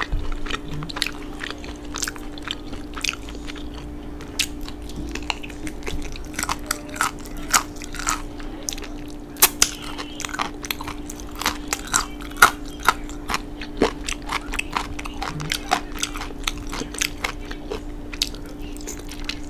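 Close-up mouth sounds of a person biting and chewing meat off a barbecue rib bone: many short, sharp wet clicks and smacks, the loudest about halfway through, over a steady low hum.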